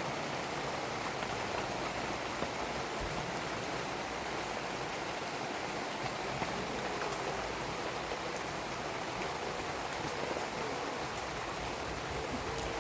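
Steady rain falling, a constant hiss with a few faint, scattered ticks of drops through it.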